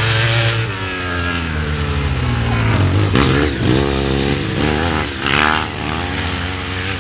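Sidecar motocross outfits racing past, several engines revving up and down over and over as the riders open and close the throttle. The sound eases off a little near the end as they pull away.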